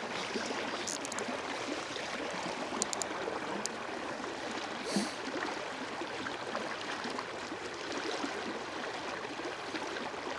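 River water flowing steadily, an even rushing sound, with a few faint clicks about a second in and around three seconds in.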